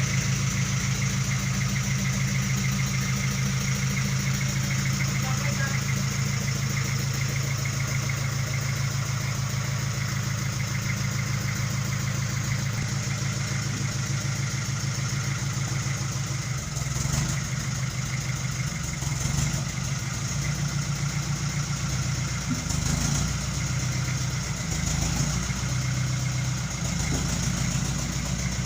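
Sawmill's engine running steadily with a low hum. About two-thirds of the way through, its note turns uneven and wavering.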